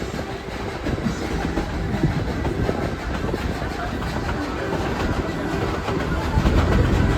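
Narrow-gauge heritage train rolling along the track, heard from aboard a passenger car: a steady rumble with the wheels clicking and clacking over the rails.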